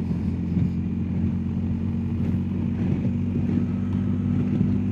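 BMW R1250GS Adventure's boxer-twin engine running steadily at an even speed while the bike is ridden.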